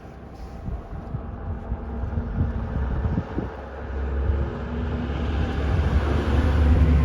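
A steady engine hum growing louder as it approaches, over low rumble.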